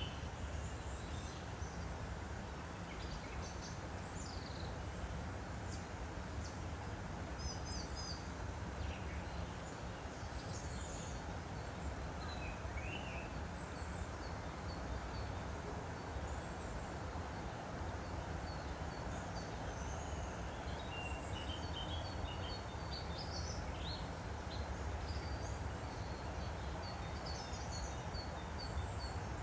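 Woodland stream running with a steady rush, while small birds chirp and trill on and off throughout.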